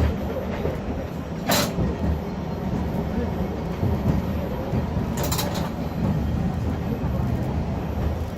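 Nagasaki streetcar (tram) running, a steady low rumble and clatter of the car on its rails, which the uploader likens to a spanner being tightened and loosened over and over. Two short hisses cut through, about 1.5 s in and a slightly longer one about 5 s in.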